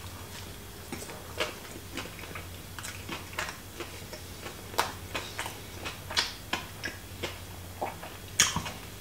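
A person chewing a mouthful of fried chicken burger: irregular mouth clicks and snaps, over a faint steady low hum.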